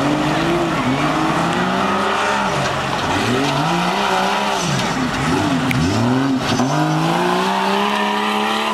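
Jeep's engine revving hard, its pitch repeatedly climbing and dropping as the throttle is worked on and off. In the second half it makes one longer, rising rev.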